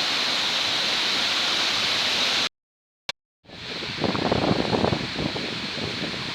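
Powerscourt Waterfall heard close up: a steady rush of falling water. About two and a half seconds in the sound cuts out abruptly for about a second, with a single click, then the water returns quieter with uneven rustling on top.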